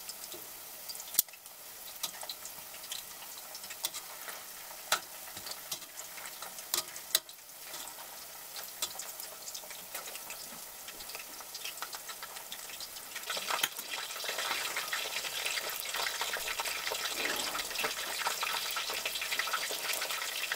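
Cornstarch-coated chicken pieces deep-frying in hot oil in a stainless steel pot: a steady crackling sizzle, with a few sharp clicks in the first half, getting louder for the last third or so.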